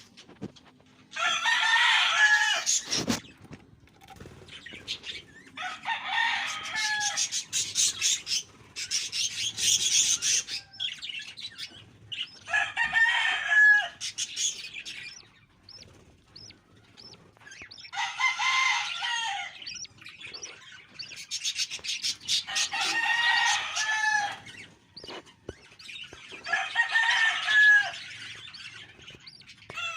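Budgerigar chicks giving raspy begging calls in repeated bouts, about seven in all, each lasting one to two seconds with short pauses between them.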